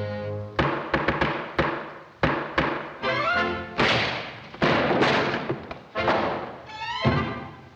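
Vintage cartoon orchestral score punctuated by about a dozen sharp thumps and knocks, with short rising slides in the music around the middle and near the end.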